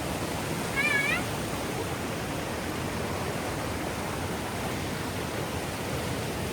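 Steady rushing of a waterfall, an even wash of falling water. About a second in, one short, high, wavering call rises above it.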